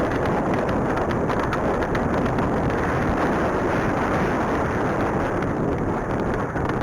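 Wind buffeting the microphone, a loud steady rumble with many faint ticks through it.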